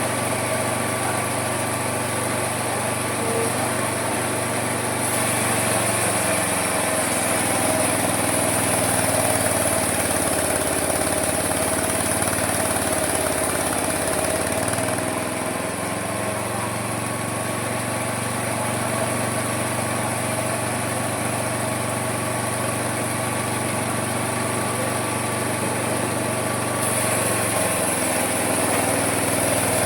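Homemade mini sawmill running steadily, its note sagging under load with a louder high hiss as it cuts through wood from about five seconds in, recovering around fifteen seconds, and loading again near the end.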